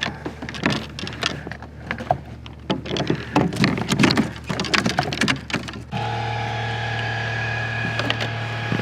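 Irregular knocks and clatter of handling on the kayak, then about six seconds in a steady electric motor hum starts abruptly and holds.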